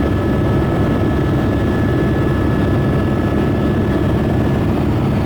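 Helicopter in flight: dense, steady rotor and engine noise with a fast low pulsing and two steady high whining tones above it.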